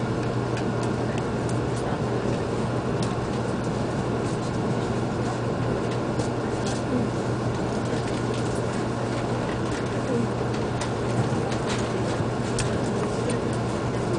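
Steady running noise heard inside the cabin of a Hakata-Minami Line Shinkansen-type train: a constant low hum over rolling noise, with faint scattered clicks and squeaks.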